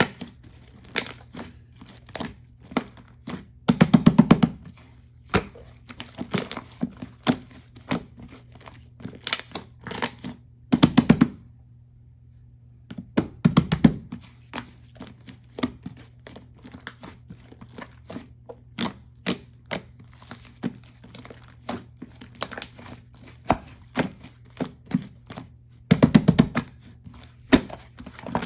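Irregular taps, knocks and crinkling of things being handled, with a few louder rattling clusters, over a steady low hum.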